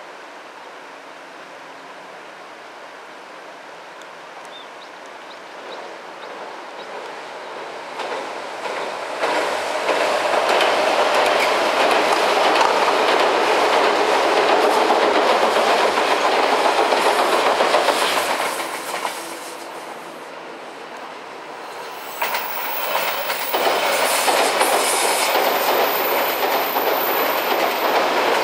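Odakyu electric train crossing a railway bridge, its wheels clacking over the rail joints as it approaches and passes loudly. After a brief dip the clacking comes back loud about two-thirds of the way in, now with a thin high squeal over it.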